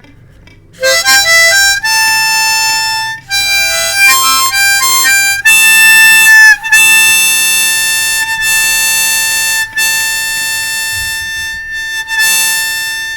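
Harmonica playing the song's instrumental ending: a run of short, quick notes and chords, then long held chords that fade out at the end.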